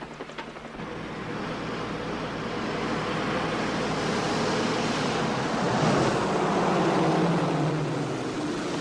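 A rushing vehicle noise that swells steadily, peaks about six to seven seconds in with a low hum under it, then eases off, like a vehicle passing close by.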